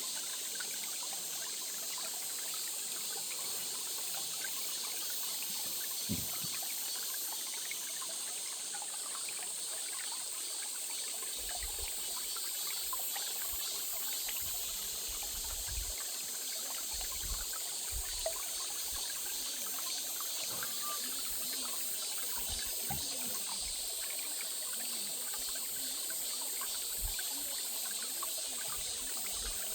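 A small stream trickling and splashing steadily, with a low thump about six seconds in and scattered low rumbles later on.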